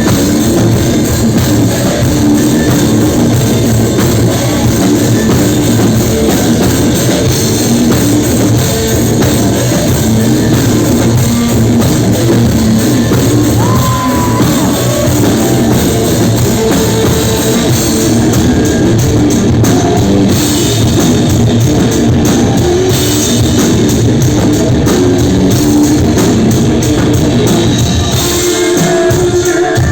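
A rock band playing loud, steady music with drum kit and guitar, and no clear singing.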